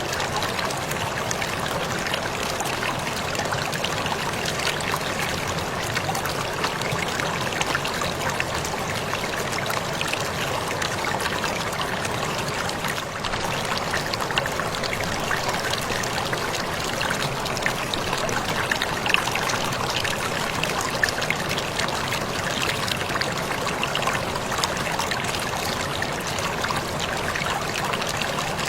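Waterfall: water falling and splashing steadily, an even rush with a fine patter of small splashes and drips running through it.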